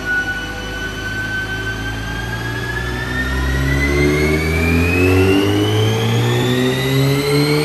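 Audi S3 8V's Stage 1 remapped turbocharged 2.0-litre four-cylinder with resonator-deleted exhaust, accelerating under full load on a four-wheel-drive rolling road. The engine note and a high whine climb steadily in pitch, getting louder from about halfway.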